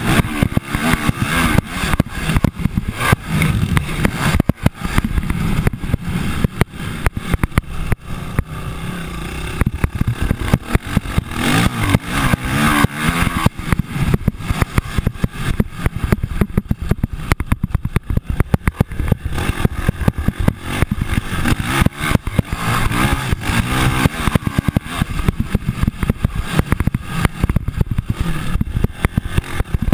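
Motocross dirt bike engines running and revving, rising and falling unevenly.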